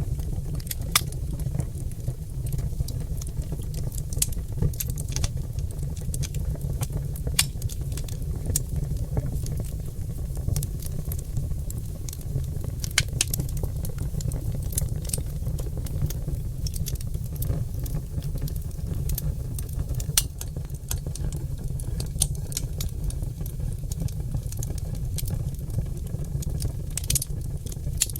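Wood fire burning in a fireplace, oak logs crackling with frequent irregular sharp pops over a steady low rumble.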